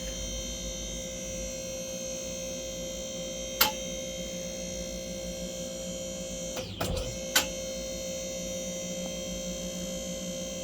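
Electric-hydraulic vehicle lift power unit running with a steady whine while it raises the car. Its tone dips briefly near the middle, and a few sharp clicks come through it.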